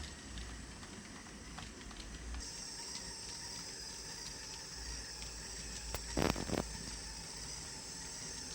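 HO-scale brass three-truck Heisler model locomotive running along the track, with faint light clicking from the wheels and a steady high whir. About six seconds in there is a brief, louder clatter lasting about half a second.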